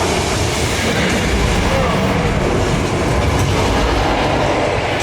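Studio Tour tram, a tractor-pulled train of passenger cars, rumbling and rattling steadily on the move, heard from on board.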